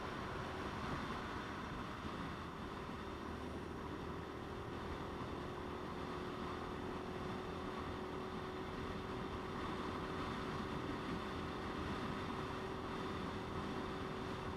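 Motorcycle running at a steady cruise, its engine note holding one pitch, under a constant rush of wind and road noise.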